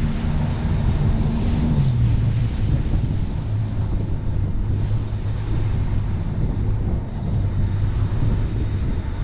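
Jet boat engine running, its pitch dropping about two seconds in as it eases off, then holding steady at a lower speed, with wind rushing over the microphone.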